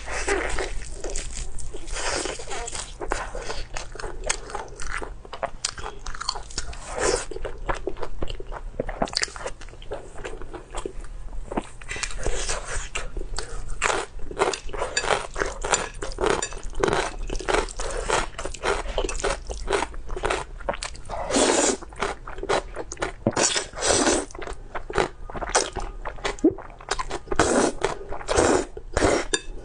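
A person chewing and biting food close to the microphone: a continuous run of short, quick mouth sounds.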